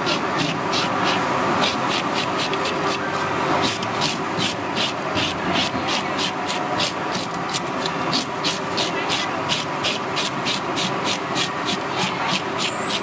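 Rapid, regular scraping strokes, about four a second, over a steady background din.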